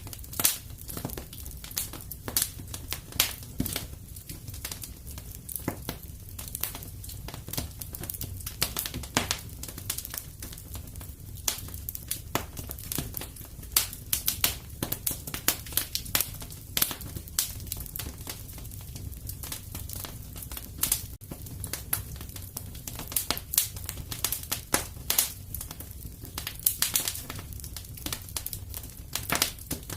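Wood fire crackling in a fireplace: a steady, irregular stream of sharp pops and snaps, several a second, over a steady low rumble.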